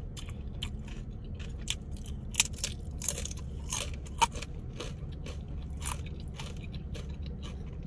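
Close-up crunching and chewing of a fried tortilla chip: a string of crisp, crackly crunches, sharpest about two and a half and four seconds in, over a steady low hum.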